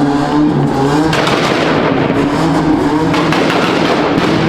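A car engine held at high revs with a loud exhaust, its pitch steady with small rises and falls.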